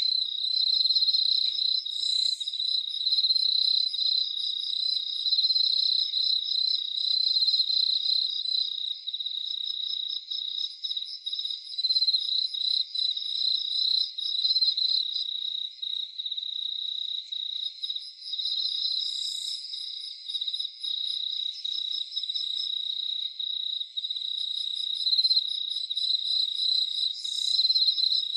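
Crickets chirping in a steady, rapidly pulsing chorus, with a fainter, higher ticking series that comes and goes.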